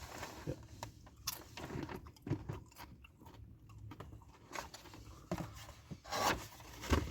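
Crunching and crackling of Doritos tortilla chips in irregular bursts, the loudest near the end.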